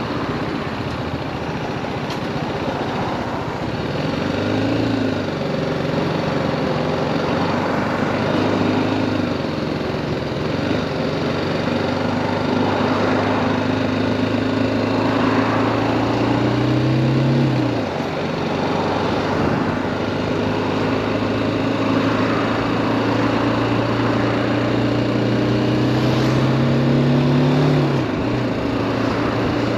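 2018 BMW G310R's single-cylinder engine pulling the motorcycle along. Its pitch climbs slowly and drops sharply twice, about two-thirds through and again near the end, over wind and road noise.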